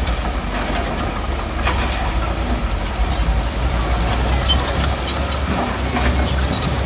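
Heavy diesel earthmoving machinery running with a steady low rumble, with scattered metallic clanks and rattles.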